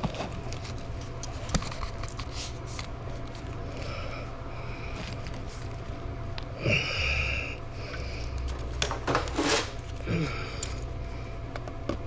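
Scattered clicks, knocks and brief scrapes from handling PVC drain pipe and fittings during priming and gluing, over a steady low hum.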